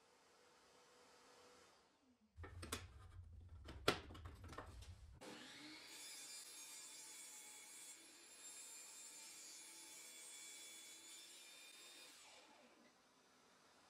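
Woodworking handling sounds: a quick run of knocks and clicks with one sharp loud knock, then several seconds of steady hissing, like a tool working wood, that fades near the end.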